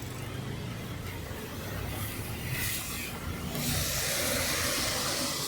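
A car passing on a rain-soaked street: a low traffic rumble, then tyre hiss through standing water that builds from about two seconds in, peaks near the end and starts to fade.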